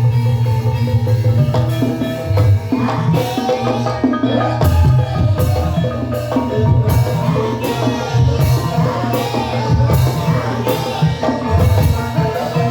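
Banyumasan gamelan music playing loudly: struck mallet instruments ringing over a steady drum beat.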